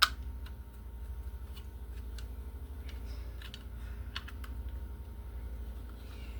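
One sharp click at the start, then scattered light clicks and taps of hands handling an old-work electrical box, over a steady low hum.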